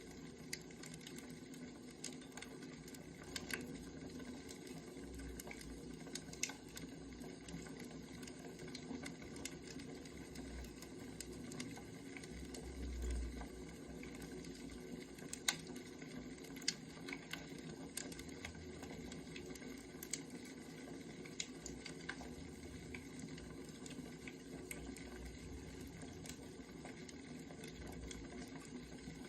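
Wood fire crackling softly, with irregular sharp pops over a low steady hiss.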